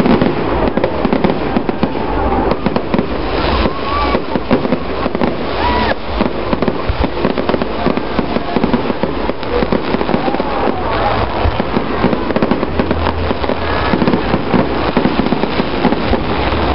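Fireworks display: a dense, unbroken run of bangs and crackles, with people's voices faintly underneath.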